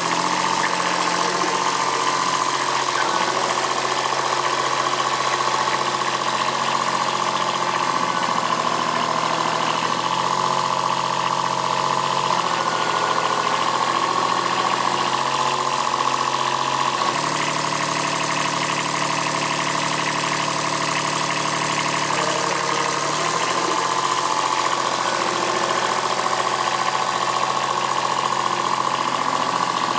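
Kubota B7001 tractor's diesel engine running under load while pulling a grape vine stump out with a steel cable, its engine note stepping up and down several times as the load changes.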